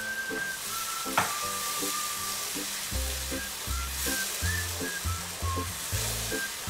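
Diced char siu pork sizzling in a frying pan as a cornflour-and-water slurry is stirred through it with a wooden spatula, with one sharp tap about a second in.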